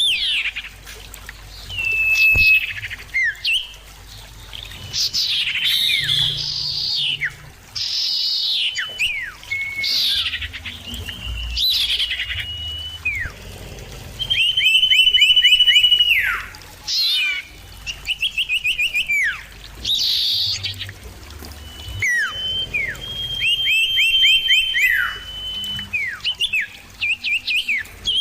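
Common ioras calling back and forth in clear, loud whistles. The calls are a mix of downward-sliding notes, long level whistles, and quick runs of short falling notes.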